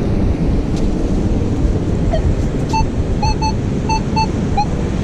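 Heavy wind buffeting the microphone over the surf. From about two seconds in, a Minelab Manticore metal detector gives a string of short, high beeps, several in quick pairs, as it sweeps over a buried target that is still in the hole.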